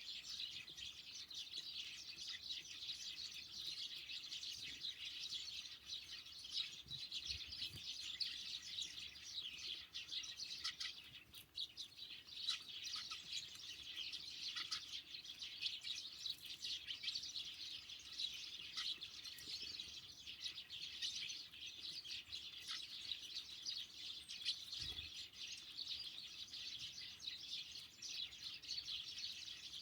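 Many small songbirds chirping and twittering continuously in a dense chorus of high, short calls, with a brief lull about eleven seconds in.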